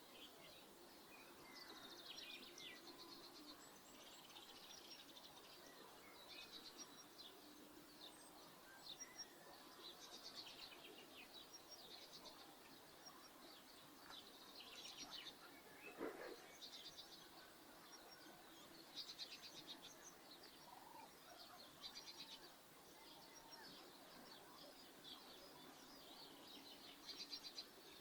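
Faint outdoor chorus of small birds chirping and twittering in quick repeated bursts, with one short sharp sound about halfway through.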